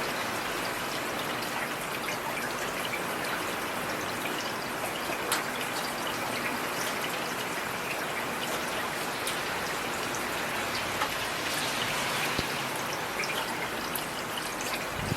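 Heavy rain falling steadily: a dense even hiss with many scattered sharp drop hits.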